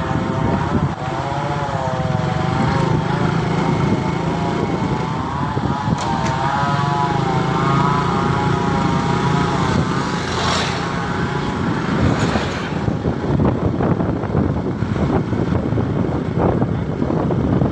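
Motorcycle engine running while riding, its pitch wavering up and down. About twelve seconds in, the engine note fades under a rushing noise of wind on the microphone.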